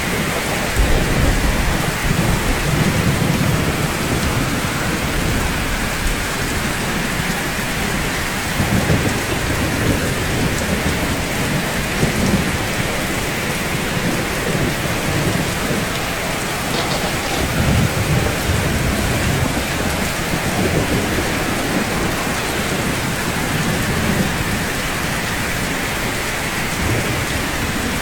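Steady rainfall on rooftops: an even hiss with low rumbles that swell and fade every few seconds.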